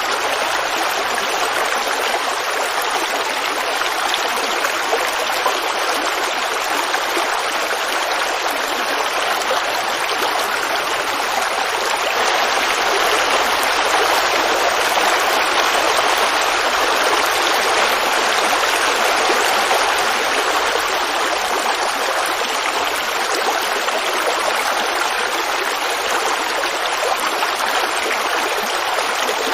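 Creek water running and babbling over stones: a steady, even rush.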